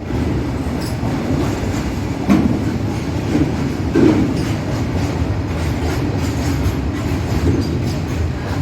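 A train running along the tracks: a steady rumble with wheel clatter, and a louder knock about two seconds in and another about four seconds in.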